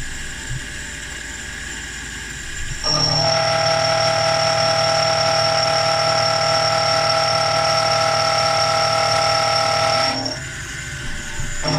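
Machine tool running: a quieter steady hum, then loud with several steady tones and a high whine from about three seconds in, dropping back about ten seconds in and coming on again just before the end.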